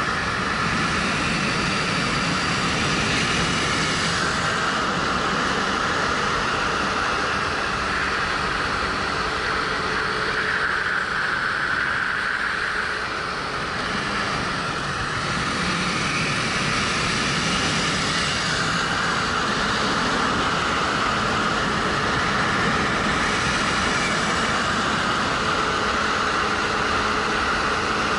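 Steady wind rush over a helmet-mounted camera while riding a 2013 Suzuki GW250 motorcycle, its parallel-twin engine running underneath, easing briefly about halfway through.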